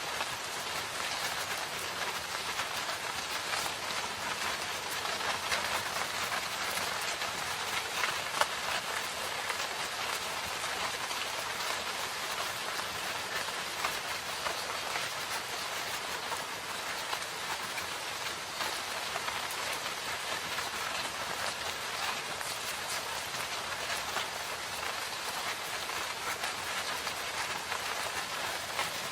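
Steady rain falling on forest foliage, a continuous hiss dotted with individual drop ticks.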